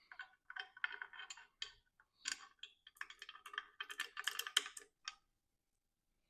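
Rapid small clicks and light rattling in two runs of bursts, stopping about five seconds in.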